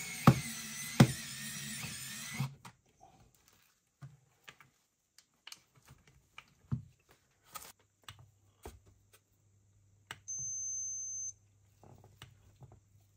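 A small electric motor whirs with some clicks and cuts off suddenly about two and a half seconds in, then scattered light clicks of handling. Near the end comes a single high-pitched electronic beep lasting about a second, over a faint low hum.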